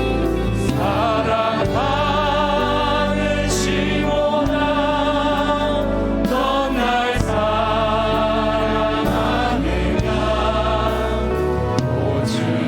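A church praise band playing a worship song, with keys, bass and drums under singers holding long, wavering notes.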